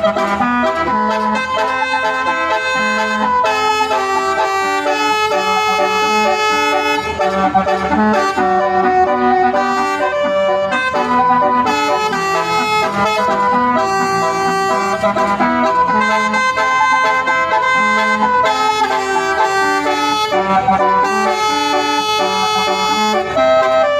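A bus's multi-tone musical air horn (telolet horn) playing a tune of held, stepping notes.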